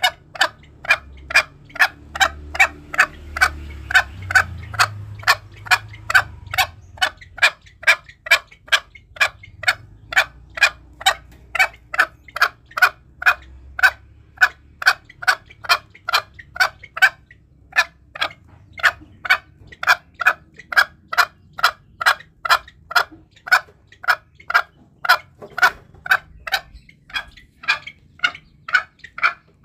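Green junglefowl calling: short, sharp calls repeated about twice a second, with a brief pause a little past halfway.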